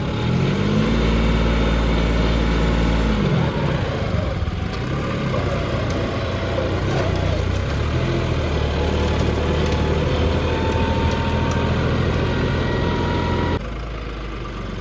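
Tractor engine running under load. Its pitch rises about half a second in, holds for a couple of seconds and falls back, then it keeps running steadily. The sound drops abruptly about a second before the end.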